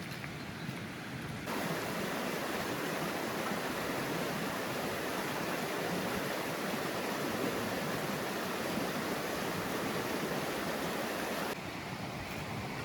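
Rushing water from a rain-swollen stream or falls, a steady hiss and roar. It gets abruptly louder about a second and a half in and drops back abruptly near the end.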